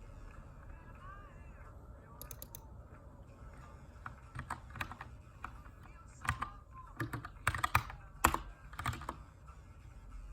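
Typing on a Keychron K2 mechanical keyboard with brown switches in an aluminium case: irregular keystrokes start about four seconds in and grow busier, with a brief flurry of clicks just after two seconds.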